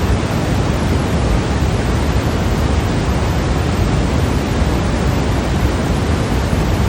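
Steady white noise: a constant, even hiss with no change, fuller in the low end than the highs.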